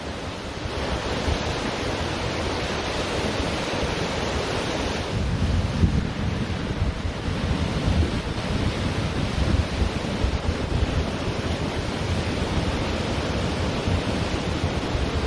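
Ocean waves washing onto a beach, a steady surf hiss, with wind buffeting the microphone as a low rumble.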